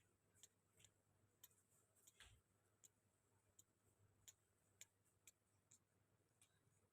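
Near silence broken by faint, scattered short clicks, about a dozen of them at uneven intervals.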